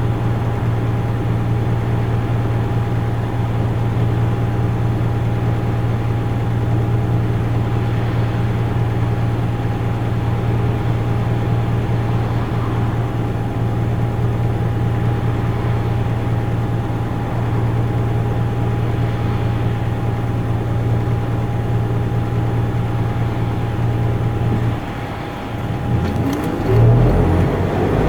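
Isuzu Erga Mio bus's four-cylinder turbodiesel, heard from inside the cabin, running steadily under way with a constant thin whine above the engine note. Near the end the engine note drops, then rises again as the bus pulls away or shifts.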